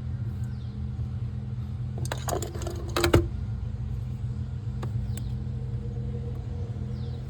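Metal clicks and clanks of work on a car's steering bushing, a cluster about two to three seconds in ending in one sharp knock, then a couple of single ticks, over a steady low hum.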